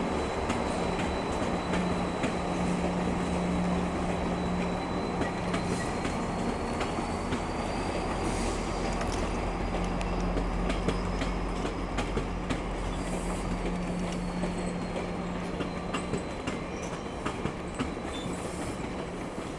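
GO Transit commuter train rolling through the station, its wheels clicking over rail joints and switches. A steady high-pitched wheel squeal runs throughout, rising a little in pitch in the middle and falling back, over a low steady hum.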